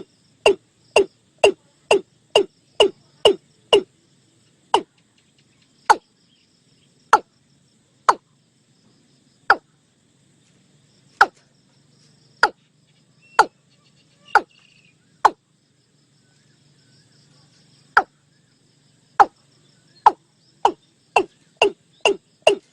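Watercock calling: a series of short, clipped notes, about two a second at first, slowing to one every second or so in the middle, then speeding up again near the end.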